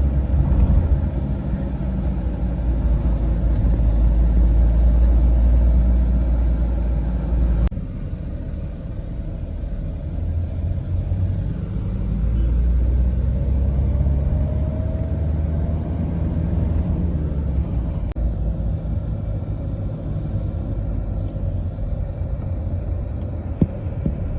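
Steady rumble of a car's engine and tyres heard from inside the cabin as it drives up a hill road. The sound changes abruptly about 8 and 18 seconds in.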